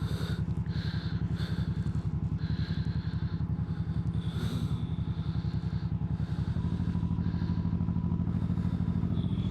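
Motorcycle engine idling with an even exhaust pulse, settling a little steadier about two-thirds of the way through.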